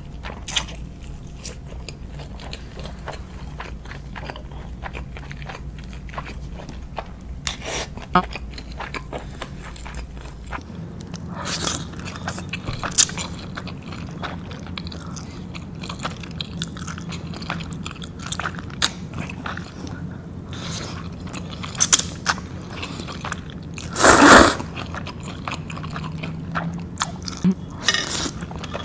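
Close-miked eating: a person taking big bites and chewing, with scattered crisp crunches and mouth clicks, and one louder burst about 24 seconds in.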